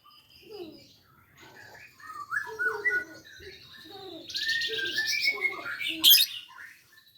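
Young lovebird chattering in a run of short chirps, many gliding down in pitch, with a rapid buzzy rattle about four seconds in: a non-klep bird practising its ngekek trill. A sharp click near the end.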